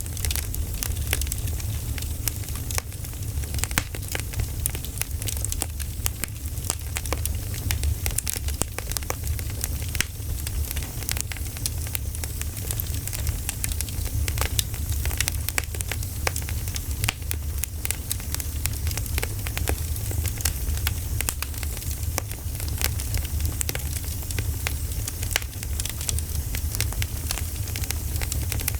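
Campfire burning, with dense irregular crackles and snaps of wood over a steady low rumble.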